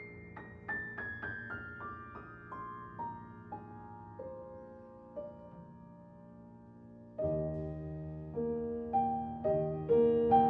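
Background piano music: single notes step downward in a slow falling line. About seven seconds in, a louder, fuller passage with bass notes and repeated chords comes in.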